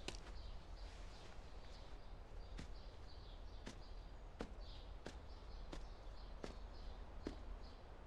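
Faint rural outdoor ambience with small birds chirping high and thin, over a low rumble. A steady series of sharp ticks sounds about once every three quarters of a second.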